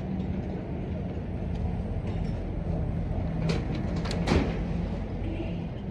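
Motor vehicle running: a steady low rumble of engine and road noise with an engine hum. There are a couple of sharp knocks about three and a half and four seconds in.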